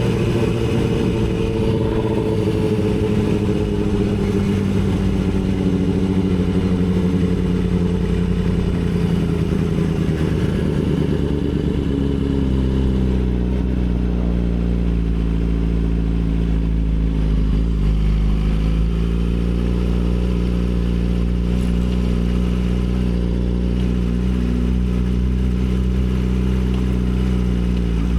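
Yamaha R6 inline-four sport bike engine running under the rider, its pitch falling slowly over the first dozen seconds as the bike slows, then holding lower and fairly steady with a deep rumble, dipping briefly about two-thirds of the way in and rising a little again near the end.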